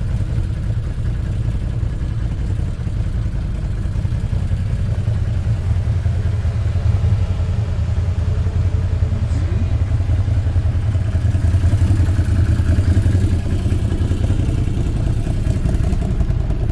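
ATV engine running steadily while riding, getting a little louder in the middle.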